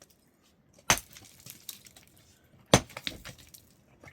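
Heavy blows of a hand tool, two sharp strikes about two seconds apart, with small clattering after the second.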